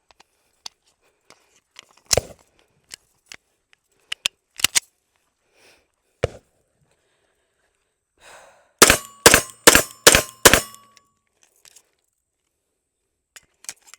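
Five quick pistol shots from a compensated Prodigy 5-inch pistol, about 0.4 s apart, emptying a short load, with a short ring after the last one. Before them, a few metallic clicks of the gun being handled.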